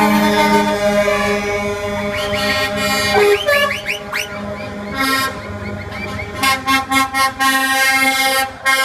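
Several truck air horns sounding together in long, overlapping blasts of different pitches, then a run of short, rapid toots a bit past the middle.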